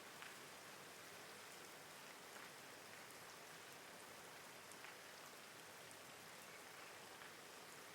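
Faint steady rain, an even hiss with a few separate drops ticking out now and then.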